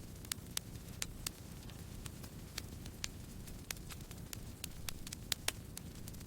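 Campfire burning: the wood crackles with irregular sharp pops over a steady low rumble of the flames, and two louder pops come about five seconds in.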